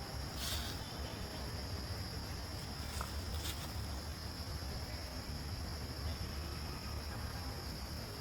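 Steady outdoor insect chorus: a constant high-pitched drone that holds throughout, over a low rumble, with a few faint clicks.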